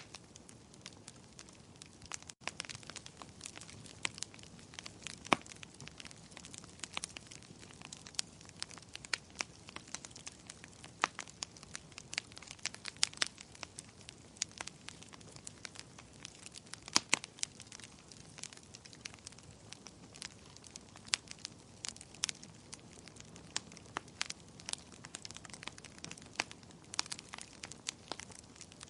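Fireplace fire crackling: irregular sharp pops and snaps over a steady soft hiss.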